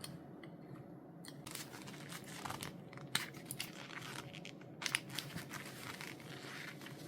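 Faint rustling with scattered light clicks, slightly stronger about three seconds in and again near five seconds.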